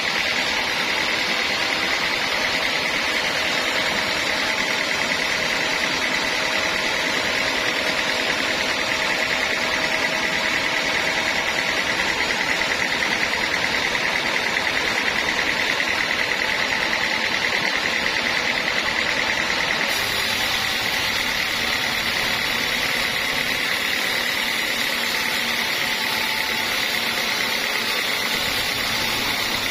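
Homemade band sawmill running steadily, a constant mechanical noise with a steady high whine.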